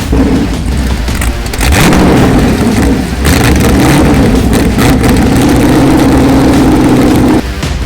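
A car engine revving loudly. It climbs about two seconds in, holds at high revs for several seconds and drops off near the end.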